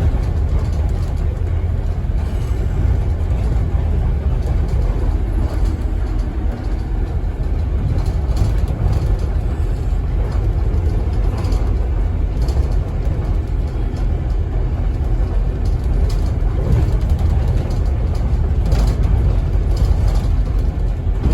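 Scania N270UD OmniCity double-decker bus under way, heard from inside the passenger cabin: a steady low engine and road rumble with occasional short rattles and knocks from the bodywork.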